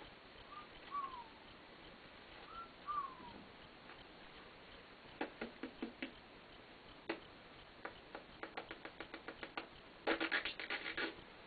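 A white-bellied caique making a few soft, short falling chirps, then a run of quick clicks and scratching that speeds up and grows densest near the end.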